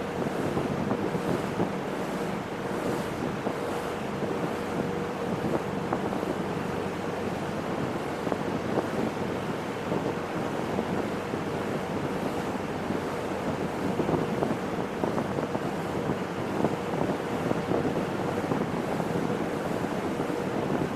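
Boat underway: a steady rush of wind and water, with wind buffeting the microphone and a steady engine hum beneath.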